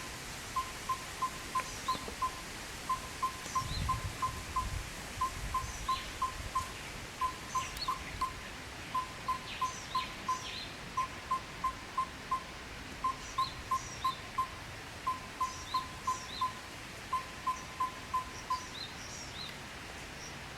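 Yellow-rumped tinkerbird calling: a long series of short, evenly repeated notes on one pitch, in runs of about five to seven with a brief gap between runs, stopping near the end. Other small birds give faint, thin, high chirps.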